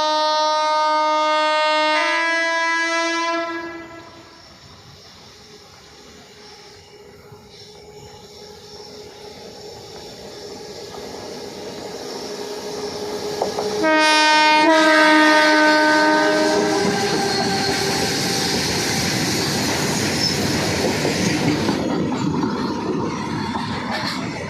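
Indian Railways electric locomotive horn sounding for about three and a half seconds, its chord stepping slightly lower partway through. Then a train's rumble builds, a second horn blast of about three seconds comes about halfway through, and a train passes with loud, steady wheel-on-rail noise.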